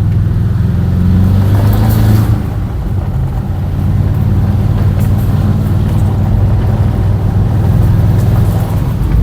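2006 Porsche Cayenne Turbo's twin-turbo V8 running loud and raspy with its muffler cut off, under way. The engine note eases off briefly about two seconds in, then pulls steadily again.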